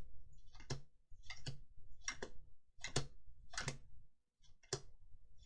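Trading cards being handled one at a time, with a crisp click roughly every two-thirds of a second, about seven in all.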